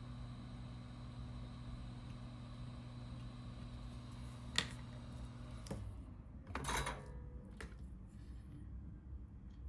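Steady electrical hum of a small motor running, with a faint high whine, which cuts off a little past halfway. A sharp click comes shortly before it stops, and a short rustling scrape follows.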